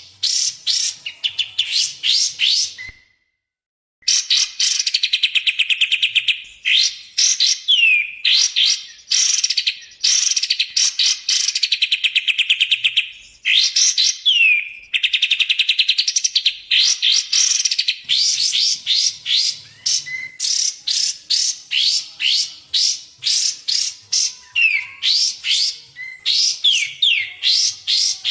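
Recorded songbird training track of kapas tembak and cucak jenggot song: loud, fast runs of high whistled chirps and rattling trills, with short sliding notes in between. The song stops dead for about a second, three seconds in, then carries on.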